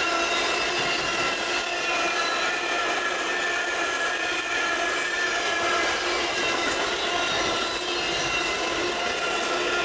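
Diesel-hauled gypsum freight train running past on an uphill climb: a continuous, steady engine drone of unchanging pitch over rumbling wheel noise.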